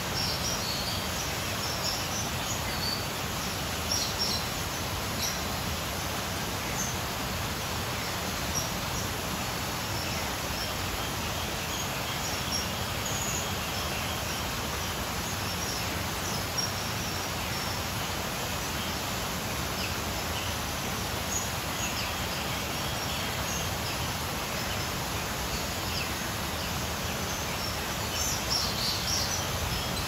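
Steady background hiss with scattered short, high bird chirps, a small cluster of them near the end.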